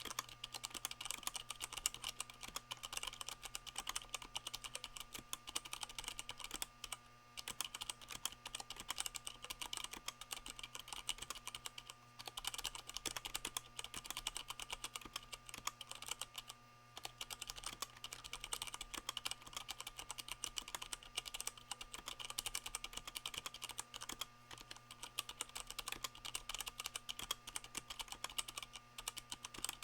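Continuous fast typing on a Leopold FC660M mechanical keyboard with Cherry MX Brown switches damped by rubber O-rings, the keystrokes landing as a dense stream of short clicks with a few brief pauses.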